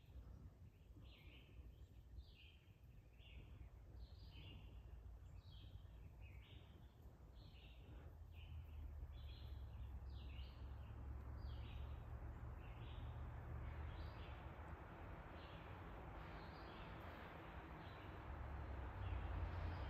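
A songbird chirping faintly, a steady run of short high notes about two a second that fade out near the end. A low rumble builds up under it from about halfway.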